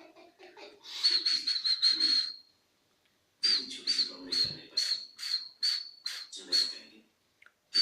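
Cockatiel giving runs of short, sharp, high chirps: a quick burst about a second in, a pause, then a slower series of about ten chirps.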